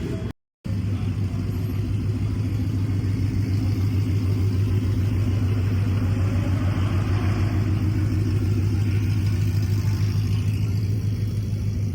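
A car engine idling close by with a steady, deep exhaust note and a fast, even pulse. The audio cuts out completely for a split second just after the start.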